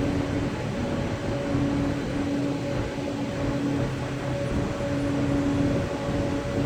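Steady loud drone of coal-fired power plant machinery, with a humming tone that swells and fades every second or two over a rough, rumbling noise.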